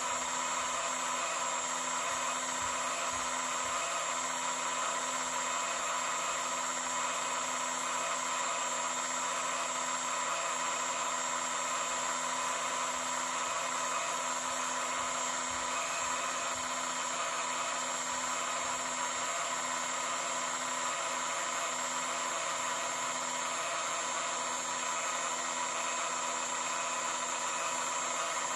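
A small electric motor running steadily with a whirring noise and a low hum that does not change.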